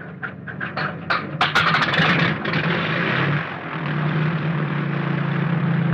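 An aircraft piston engine starting: a run of separate firing clicks that quicken over the first second or so, then the engine catches and runs steadily with a low drone.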